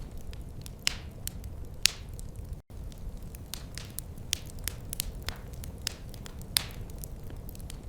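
Wood fire crackling: irregular sharp pops and snaps, a few of them louder, over a steady low rumble of the flames. The sound cuts out for an instant about a third of the way in.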